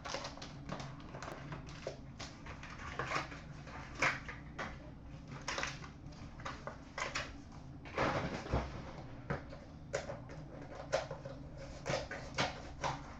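Hockey card packaging being opened and cards handled: irregular rustles, crinkles and soft clicks, with the louder ones about 4 s, 8 s and 11 s in.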